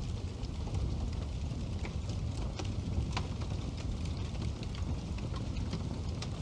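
Wood fire burning in a fireplace: a steady low rumble of the flames with irregular sharp crackles and pops, a few each second.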